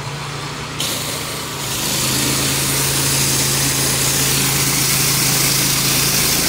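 Pressure washer engine running steadily under a hissing high-pressure water spray. The hiss comes in about a second in and grows louder a second later.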